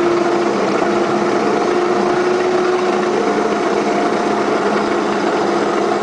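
Garden-scale model train running steadily along its track: a continuous mechanical whine from the locomotive's electric motor and gears over wheel noise. A held tone in it fades out about halfway through.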